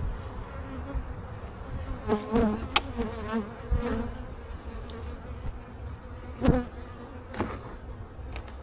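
Honey bees buzzing around an open hive, a wavering hum, with several sharp knocks as the wooden hive boxes are handled, the loudest about six and a half seconds in.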